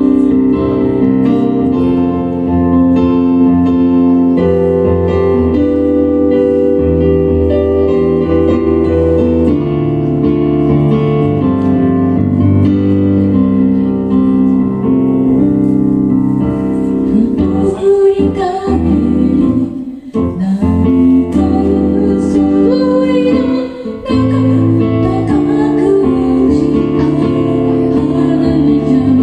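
Band music led by keyboard chords, with singing. The sound dips briefly twice about two-thirds of the way through.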